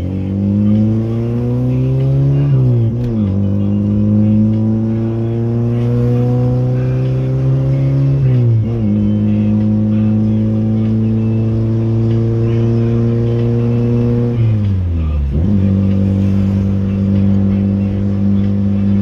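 VW Gol G2's AP four-cylinder engine through a straight-through exhaust with no muffler, pulling hard through the gears. The pitch climbs and drops at shifts about 3 and 8.5 seconds in, falls steeply again around 15 seconds, then holds steady at cruising revs.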